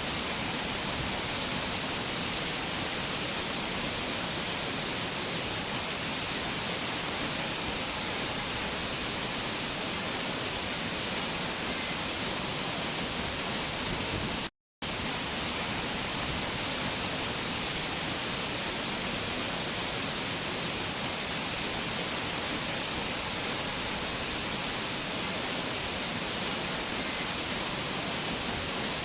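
A waterfall cascade rushing steadily, an even hiss of falling water with no changes in it. About halfway through the sound drops out to silence for a fraction of a second, then resumes unchanged.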